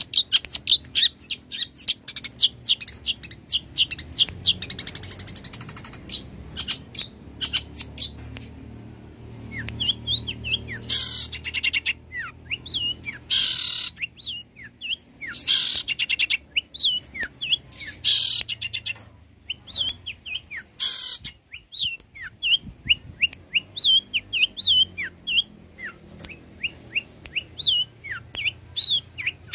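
Long-tailed shrike (cendet) singing a varied song of quick sharp chirps and short whistled notes, broken in the middle by about five harsh, rasping bursts, each about half a second long.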